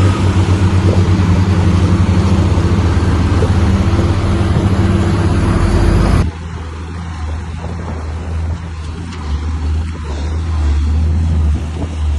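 Bulldozer's diesel engine running hard, loud and steady. About six seconds in the sound cuts off abruptly to a quieter, lower engine drone.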